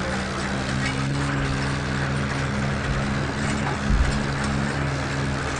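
Swaraj tractor's diesel engine running steadily, with a brief low thump about four seconds in.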